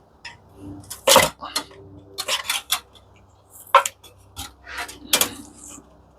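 Irregular metallic clinks and clanks of tools and metal parts being handled while dismantling an industrial coffee machine. The loudest knocks come about a second in and just before four seconds.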